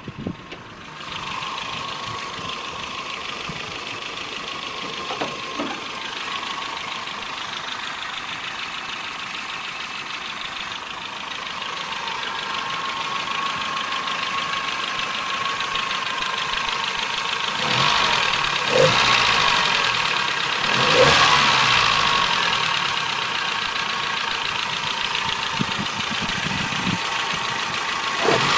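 Nissan E15S 1.5-litre carburetted four-cylinder engine running steadily, swelling louder twice with a change in pitch about two-thirds of the way through. The owner says its valves need adjustment.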